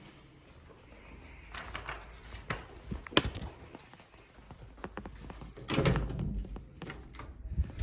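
Footsteps and scattered sharp clicks of a person walking indoors, with a dull thunk about six seconds in, the loudest sound, and another near the end.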